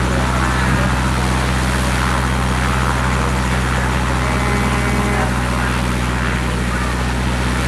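Helicopter rotor and engine running steadily close by: a steady low rotor hum under a loud, broad rushing noise.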